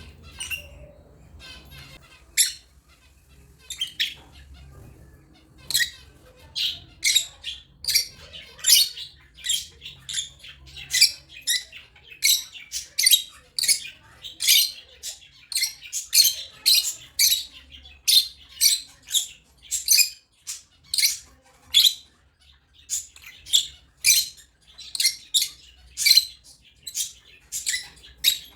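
African lovebirds calling in short, sharp, high-pitched chirps. At first they come one at a time a few seconds apart; from about six seconds in they run on in a rapid series of roughly two calls a second.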